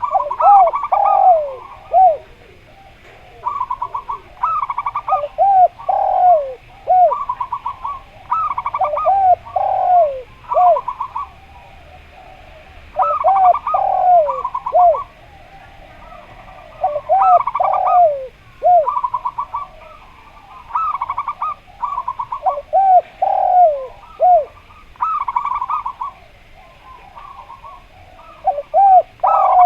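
Zebra doves (perkutut) and a derkuku dove cooing in turn. Phrases of rapid stuttering notes run into drawn-out falling coos, repeating every few seconds with short pauses between.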